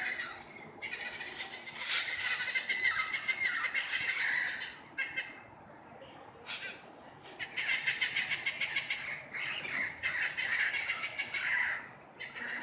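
A flock of parrots squawking, many harsh calls overlapping in two long bouts with a short lull between them.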